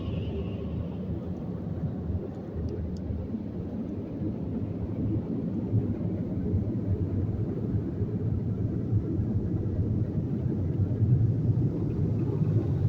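Steady, muffled low rumble heard from inside a car's cabin, growing a little louder toward the end.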